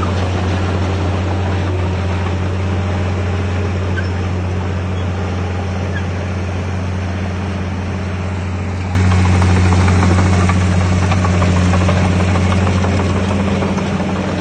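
Heavy diesel engine of earthmoving machinery running steadily with a deep hum. About nine seconds in, the sound jumps abruptly louder.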